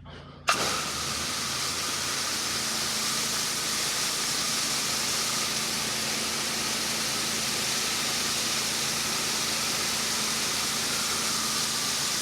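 Pressure washer spray opens up suddenly about half a second in: a steady, loud hiss of high-pressure water spraying, with the machine's engine running steadily underneath.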